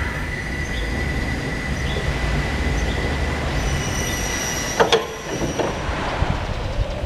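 BT RRE-2-15 electric reach truck running: a steady high whine from its electric drive or hydraulics over a low rumble, shifting to a higher whine about three and a half seconds in, with a sharp clunk about five seconds in.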